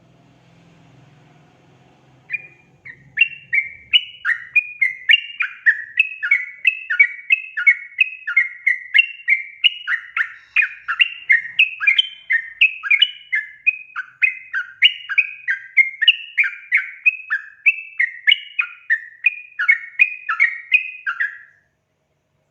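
Yellow-vented bulbul (trucukan) singing a long, rapid run of bubbly, chattering notes, about two a second, starting a couple of seconds in and stopping abruptly near the end.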